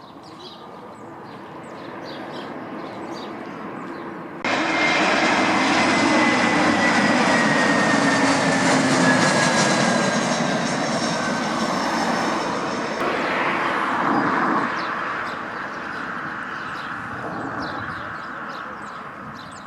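Small plane's engines passing close on landing approach. The sound builds, jumps sharply louder about four seconds in, carries a whine that slowly falls in pitch, then fades away.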